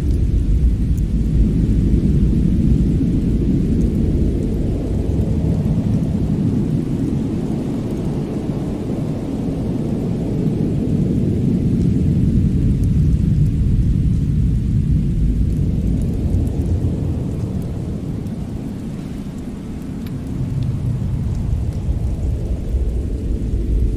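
Winter storm and fireplace ambience: a deep rumble that swells and eases every several seconds, dipping about three-quarters of the way through before rising again, with faint crackles on top.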